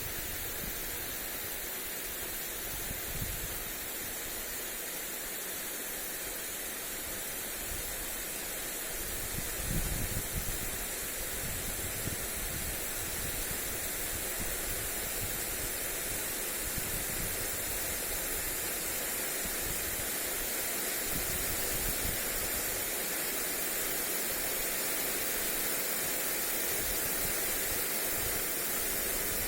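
Lawn sprinkler spraying water onto grass, a steady hiss, with gusts of wind rumbling on the microphone now and then, the strongest about ten seconds in.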